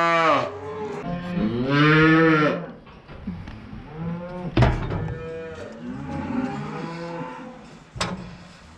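Red Angus cattle mooing: a loud moo ending about half a second in, another about two seconds in, then fainter calls. Two sharp knocks come about four and a half and eight seconds in.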